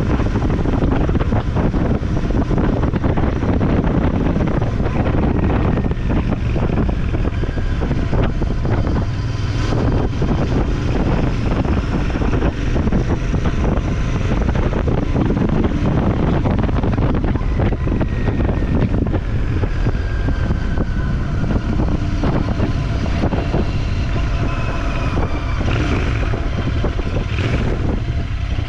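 Motorcycle on the move: the engine running steadily under a constant rush of wind over the microphone, with a few faint whines that rise and fall in pitch.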